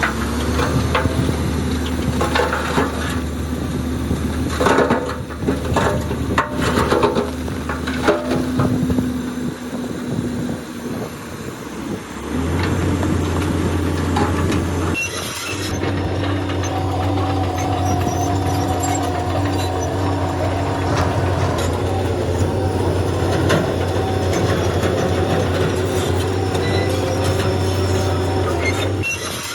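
Bulldozer's diesel engine working, with clanking and grinding from its steel tracks and the stone it pushes through the first half. About twelve seconds in, the engine note steps up and then holds steady.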